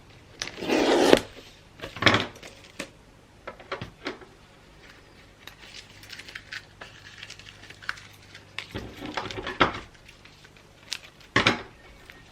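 Gift-wrapping handling sounds: bursts of paper rustling and crinkling, the loudest about a second in, with small clicks and taps between them.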